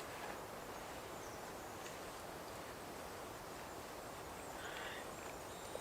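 Quiet woodland ambience: a steady faint hiss, with a soft click about two seconds in and a faint short high call about four and a half seconds in.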